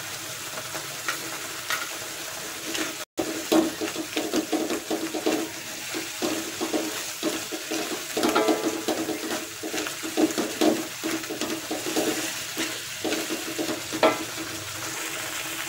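Blended chili sambal paste sizzling in hot oil in a wok while a silicone spatula stirs and scrapes through it in irregular strokes, as the spice paste is sautéed with palm sugar. The sound cuts out for an instant about three seconds in.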